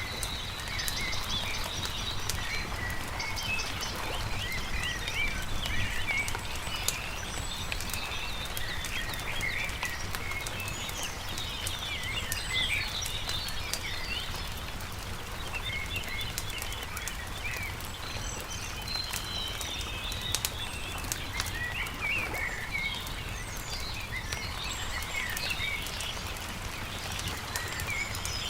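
Many small birds chirping and trilling continuously over the scattered pops and crackle of a wood campfire, with a steady low rumble underneath.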